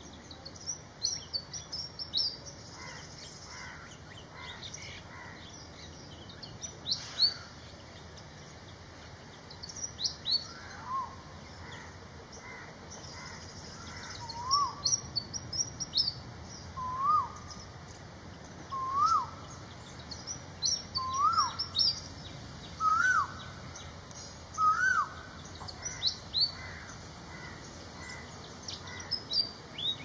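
Birds calling: quick, high chirps scattered throughout, and from about a third of the way in a lower note that rises and then falls, repeated roughly every two seconds for about fifteen seconds.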